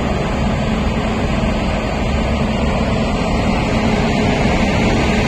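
Passenger train running on the track, a steady loud rumble with no breaks.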